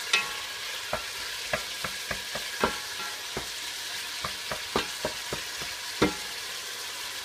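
Diced chicken breast sizzling in olive oil as it browns in a deep pot, stirred with a wooden spoon that knocks and scrapes against the pot every second or so, with one louder knock about six seconds in.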